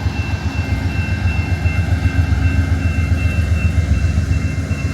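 Amtrak Borealis train's diesel locomotive running with a steady low rumble and a faint high whine.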